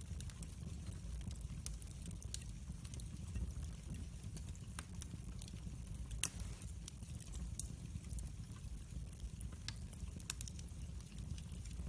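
Wood fire burning, crackling with scattered sharp pops over a low steady rumble; one louder pop about six seconds in.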